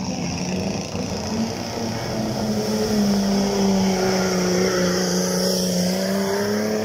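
Off-road 4x4 race buggy's engine held at high, steady revs under heavy load while it is bogged in a deep mud pit, getting louder about three seconds in.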